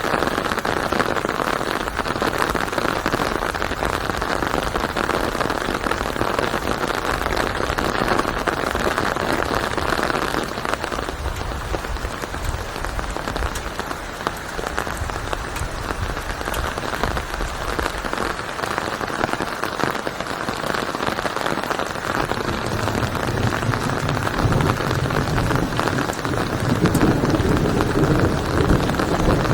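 Steady heavy rain falling, an even hiss of many drops. A low rumble builds over the last several seconds.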